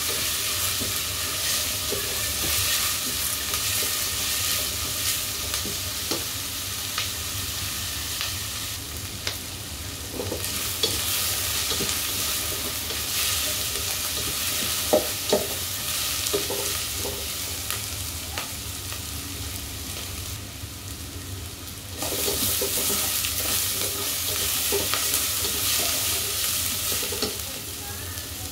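Sliced onions and aromatics sizzling in hot oil in a stainless steel pot, stirred with a plastic spatula that scrapes and knocks against the pot. The sizzle dips twice for a second or two and comes back.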